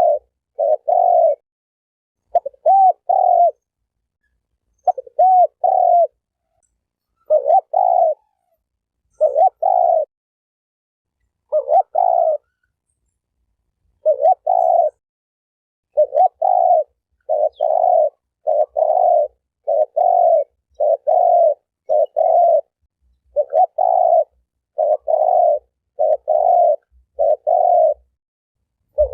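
Spotted dove cooing over and over, in short groups of two or three notes about a second apart, with one longer pause about halfway through.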